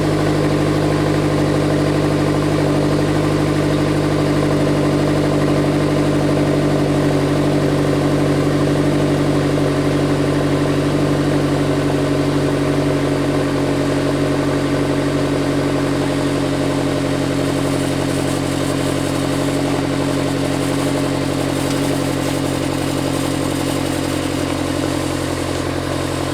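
Honda S2000's four-cylinder engine idling after a cold start, heard through an Invidia Q300 catback exhaust with a test pipe in place of the catalytic converter. It runs steadily and gets a little quieter toward the end.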